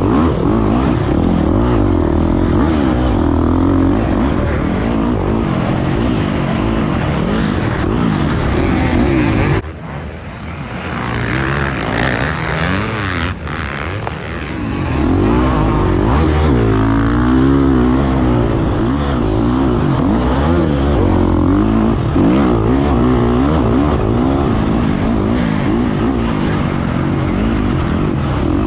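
Motocross dirt bike engine revving up and down hard as the rider works the throttle around the track, with wind rush on the helmet camera. About ten seconds in the throttle comes off and the engine drops away for several seconds before pulling hard again.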